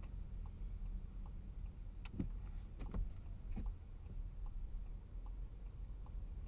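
Low steady rumble of a car driving, with faint regular ticks a little more than once a second and a few sharper clicks about two to four seconds in.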